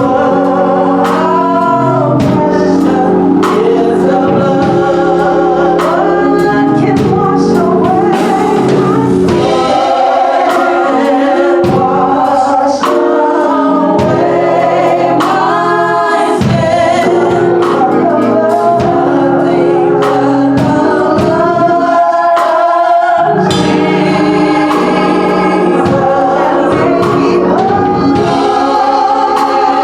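Gospel choir singing over a steady accompaniment with a regular beat.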